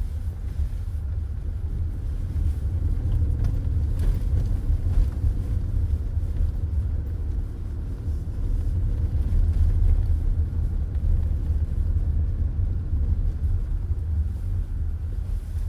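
Steady low rumble of road and tyre noise inside a moving car's cabin, with the engine running underneath.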